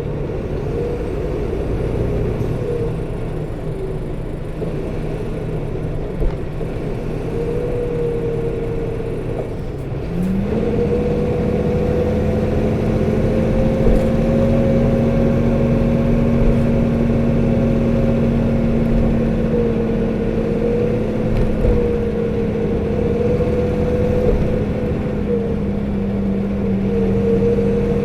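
Onboard running sound of a 2008 UD Space Runner RA city bus (PKG-RA274KAN). The diesel engine runs with a whirring from its viscous coupling fan, which stays engaged even in midwinter and sounds high for the engine speed. About ten seconds in, the sound gets louder and a steady whine sets in and holds.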